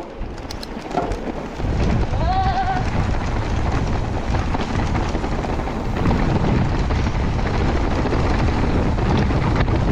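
Wind buffeting a handlebar-mounted phone's microphone as a mountain bike rolls along a rocky trail: a loud, even rumble that sets in about a second and a half in.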